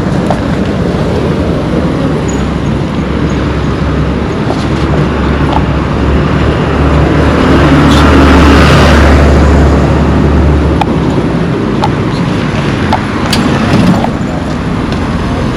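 Road traffic: vehicles driving past with engines running and tyres on the road. One passes close, growing loudest about eight seconds in and then fading.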